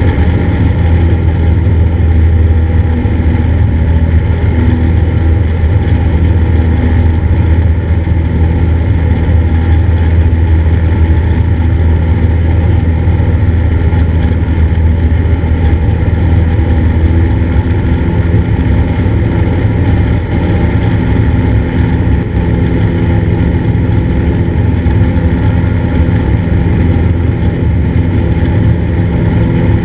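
Cessna 172's piston engine and propeller droning steadily in flight, with a slight shift in pitch about seventeen seconds in.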